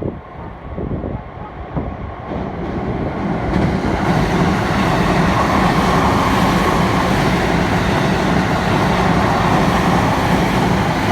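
A train approaching and passing close by on the line: the rumble builds over the first few seconds, then stays loud and steady.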